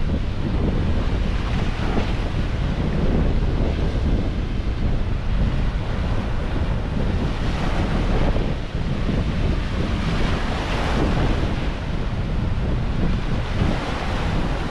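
Ocean waves washing and breaking under strong wind, with heavy wind buffeting on the microphone. Several waves swell up in the hiss, one about two-thirds of the way through.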